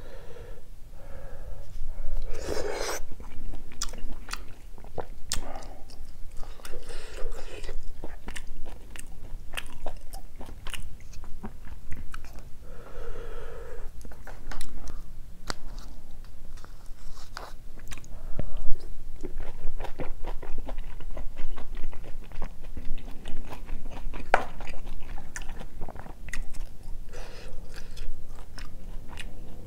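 Close-miked chewing and biting of spicy gopdori-tang, a stew of beef intestine, wide noodles and beef brisket, with a steady run of small wet clicks and smacks of the mouth.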